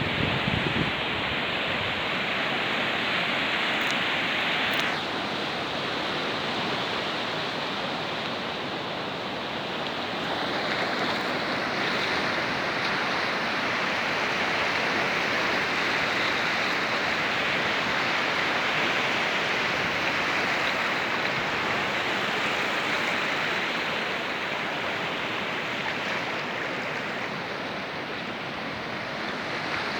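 Steady rush of running water from a small waterfall and stream pouring into the sea.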